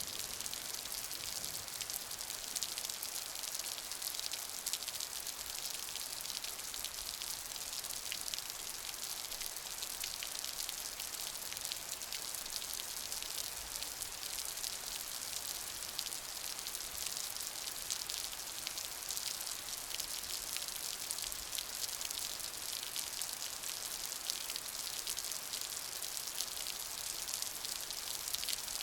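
Steady rain falling, a dense even hiss of drops with many fine patters.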